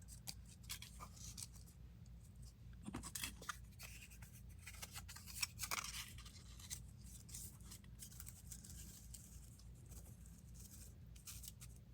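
Faint rustling, crinkling and small ticks of paper and dry plant pieces being handled and pressed down on a craft table, over a steady low electrical hum.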